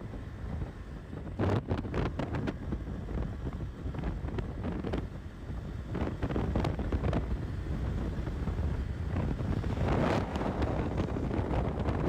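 Wind buffeting the microphone on a moving motorcycle: a steady low rumble with scattered sharp knocks, growing louder about halfway through.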